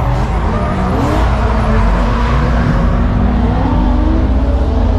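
Car engines running and revving, with pitches that rise and fall over a steady low rumble.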